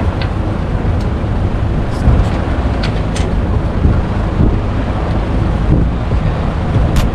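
Duromax 7 hp 208cc single-cylinder four-stroke engine running steadily, with a few sharp clicks over it.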